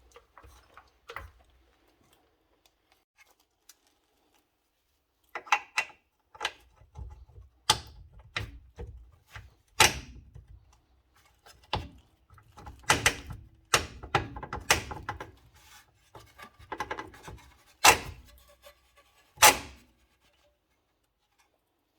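A series of irregular knocks and clunks, about a dozen sharp hits with quieter rattling and handling noise between them, the loudest near the end.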